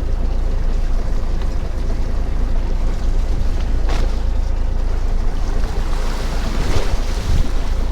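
Fishing boat's engine running with a steady low rumble, with wind on the microphone and the sea around the hull; a short sharp knock comes about four seconds in.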